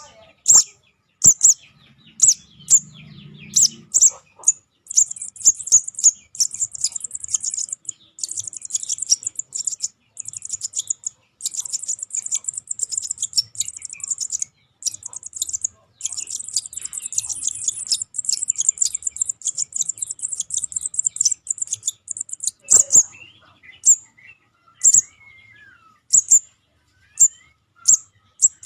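High-pitched chirping calls of young sogon birds, used as a bird-lure sound. Sharp single chirps give way about five seconds in to fast, continuous twittering. Near the end it breaks back into single chirps.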